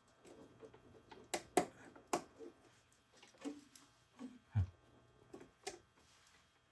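Scattered light clicks and taps as small RC helicopter parts and tools are handled while rotor blades are fitted, about half a dozen spread over the few seconds, with one low thump just past the middle.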